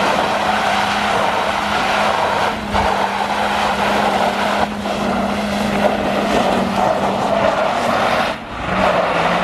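A 120 hp BMW E46 3 Series held at steady high revs while drifting, its engine note running under a hiss of spinning, sliding tyres on wet asphalt. The note dips and settles slightly lower near the end.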